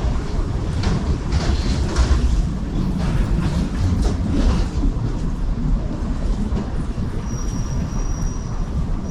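Loud, steady low rumble of a heavy vehicle, with scattered clatters in the first five seconds.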